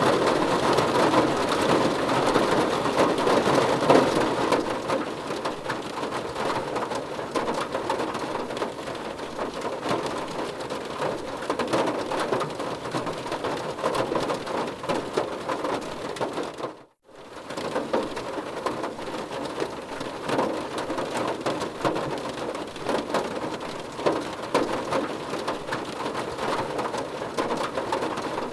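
Steady rain falling on a surface, an even hiss of dense drops. About two-thirds of the way through it dips out to near silence for a moment, then returns.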